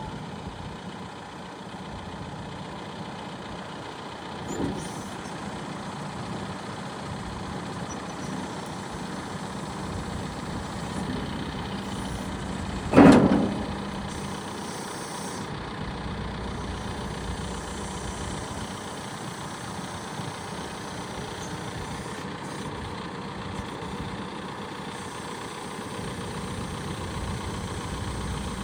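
John Deere 310SL backhoe loader's turbo diesel engine idling steadily. A single loud clunk about thirteen seconds in, and a fainter knock earlier.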